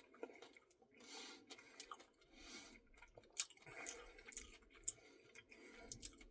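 Faint chewing and wet mouth clicks of someone eating ice cream, scattered and soft, with a few sharper clicks in the second half.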